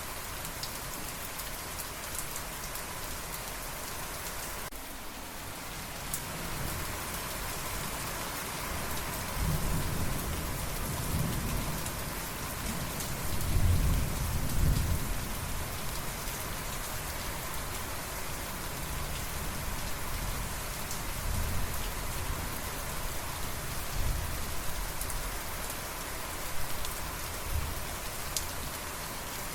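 Steady rain falling, with a low roll of thunder that builds about nine seconds in, is loudest a few seconds later, then dies away.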